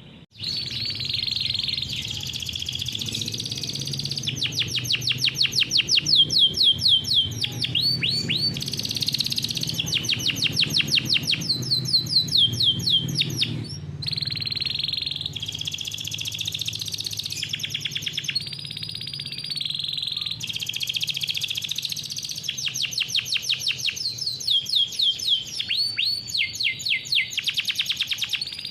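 Domestic canary singing a long rolling song: runs of rapid repeated notes, many of them sweeping down in pitch, switching to a new phrase every few seconds without a break.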